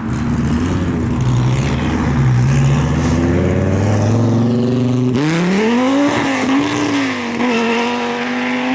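Gen 5 Viper's V10 pulling away at low revs, then about five seconds in it is given full throttle: the revs jump sharply and hold high with a wavering pitch in a hard acceleration.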